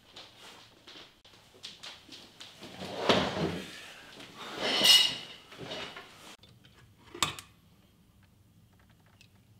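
A wooden chair dragged across the floor twice as it is pulled out and sat on, scraping, the second drag the loudest with a brief high squeal. A single sharp click follows a couple of seconds later.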